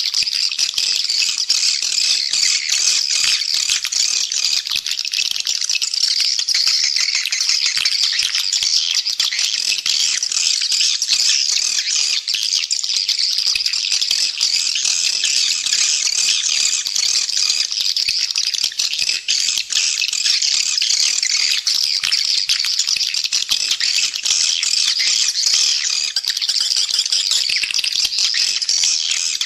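Swiftlets twittering in a dense, unbroken chorus of high, rapid chirps and rattling trills, many birds at once: a swiftlet call (lure) recording of the kind played to draw edible-nest swiftlets into a nest house.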